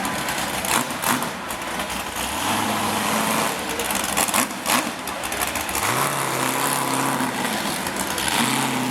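Off-road hill-climb buggy's engine running hard at high revs on a climb, with several sharp bangs in the first half and the engine note held steady toward the end.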